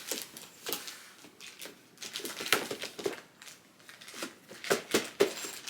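Plastic zip-top bag crinkling in short irregular bursts as a baby pats, grabs and mouths it, with paint sealed inside.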